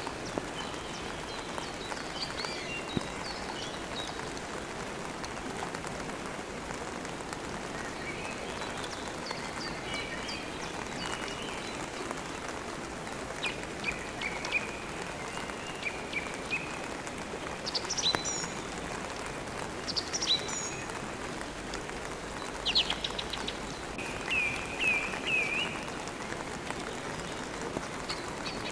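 Steady rain with birds chirping over it; sharper calls come in the second half, including a quick run of three or four notes near the end.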